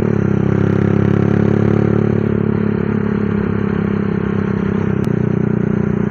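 Single-cylinder four-stroke engine of a Honda CB running a Honda Tiger engine bored up to 200cc, exhausting through an aftermarket 'dos' muffler. It runs at a steady pitch after a brief shift in pitch right at the start.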